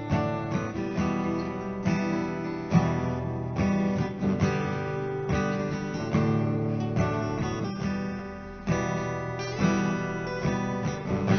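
Acoustic guitar strumming the chord intro of a slow ballad, a chord struck roughly every second.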